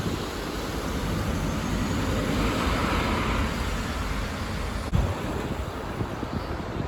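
City bus passing, its engine and road noise swelling through the middle, with wind buffeting the microphone. A single short knock about five seconds in.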